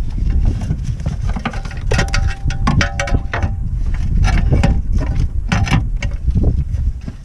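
Metallic clinks and knocks from tools and parts being handled, several ringing briefly in the middle stretch, over a steady low rumble of wind on the microphone.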